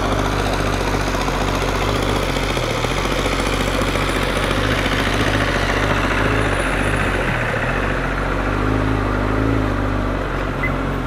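Kawasaki ZX-10R's inline-four engine running steadily near idle while the bike creeps along at walking pace.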